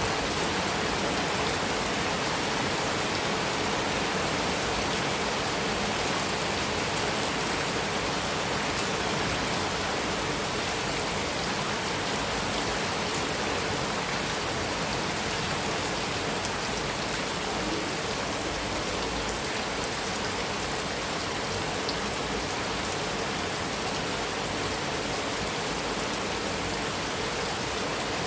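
Heavy rain falling steadily on a metal roof: an even hiss with scattered sharp drip ticks.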